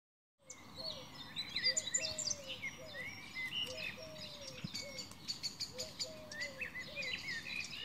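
Several birds singing and chirping at once: quick high chirps and trills, over a lower falling whistled note repeated about once a second. It starts about half a second in.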